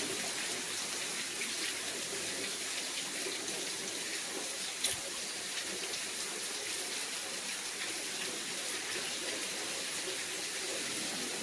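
Heavy rain falling steadily, with runoff pouring off the roof, a steady rushing of water with no gusts of wind behind it. One brief knock about five seconds in.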